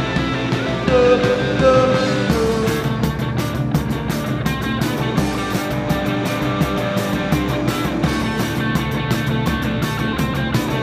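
Live rock band playing an instrumental stretch of a psychedelic garage-rock song, with no vocals. A wavering pitched line slides around in the first few seconds, then a regular beat of sharp strokes runs under the sustained band sound.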